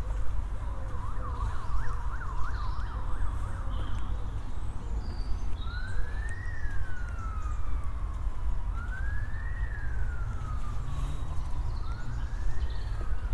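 Emergency vehicle siren some way off, first in a fast up-and-down yelp for a few seconds, then switching to a slow wail that rises and falls about every three seconds. Under it a steady low rumble, with a few faint bird chirps.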